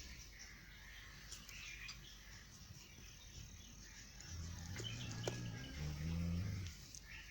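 Faint outdoor ambience with small birds chirping, a few light clicks, and a low rumble from about four to seven seconds in.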